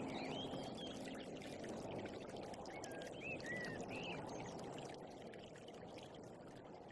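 Running water, a steady rushing like a stream, with short high chirps over it for the first few seconds; the whole sound slowly fades.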